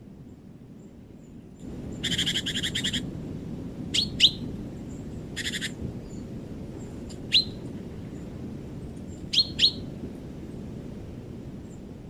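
Songbirds calling in a winter forest. Two rapid, buzzy trills are heard, and about five short, sharp call notes that drop in pitch, some in quick pairs. Under them runs a steady low rushing noise that begins about a second and a half in.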